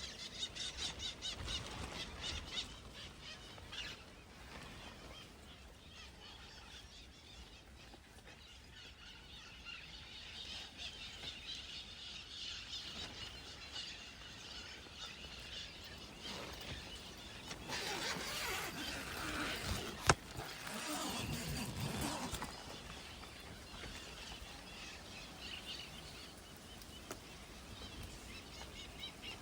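Birds chirping and calling in a faint outdoor rural ambience, with a single sharp click about twenty seconds in.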